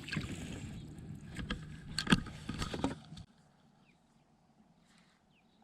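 Knocks and rustling from handling gear and a fish aboard a fishing kayak, over a low rumble. It cuts off abruptly a little over three seconds in, leaving near silence with a few faint short chirps.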